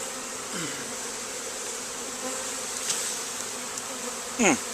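Steady buzzing of a large swarm of honey bees in flight, with a brief louder buzz near the end that drops sharply in pitch.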